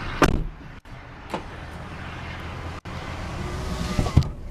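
A 1999 Honda Prelude's 2.2-litre VTEC four-cylinder idling steadily. Sharp knocks cut across the idle: a loud one just after the start, a smaller one about a second later, and another loud one near the end.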